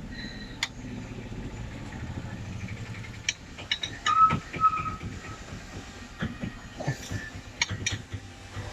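Scattered sharp knocks and clicks over a low steady rumble, with a brief squeak about four seconds in.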